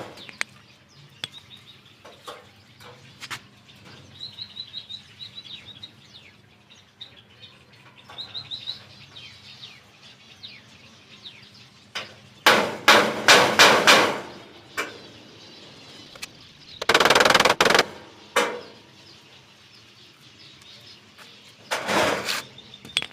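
Steel nail being hammered into a pillar to make holes, in bursts of rapid blows: a string of sharp strikes about halfway through, a denser burst a few seconds later and another near the end. Zebra finches chirp in the quieter stretches between.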